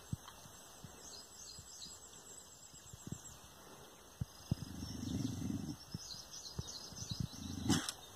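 Small birds chirping in the background, with a low rumbling sound for about a second around the middle and scattered soft clicks, then a short sharp sound near the end.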